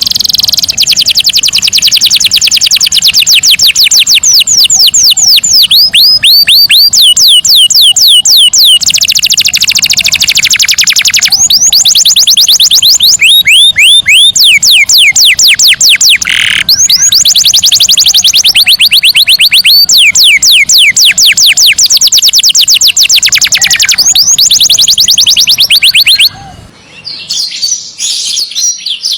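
Canary singing a long, loud song of fast rolling trills: each phrase is a rapid run of the same short sweeping note, and the note changes from phrase to phrase. About 26 seconds in, the song stops abruptly and gives way to quieter, scattered chirps.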